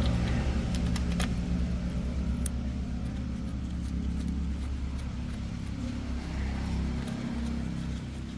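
Heavy-duty truck engine running steadily with a low, even hum that slowly eases in level, with a few light clicks over it.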